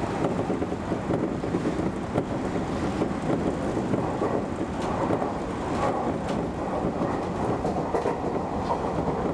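Keio Inokashira Line express train running at speed: a steady rumble of wheels on rail with a few faint clicks from rail joints, heard from the front of the train.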